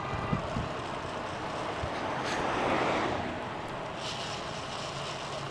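Steady wind and road noise from riding an electric bike. A louder whoosh swells and fades between about two and three seconds in, like a vehicle going past.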